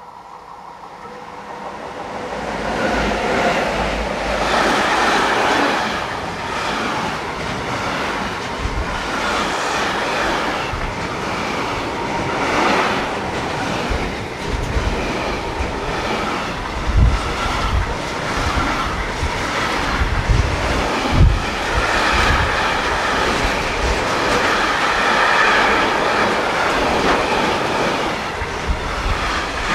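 Container freight train behind an electric locomotive passing close at speed. It swells over the first couple of seconds as the train arrives, then runs on as a steady rumble and clatter of the container wagons' wheels over the track, with a few heavier low thumps past the middle.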